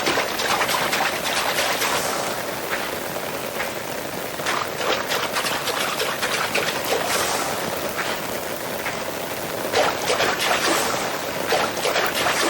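Rain falling steadily, with water pouring and splashing in many irregular drips and spatters.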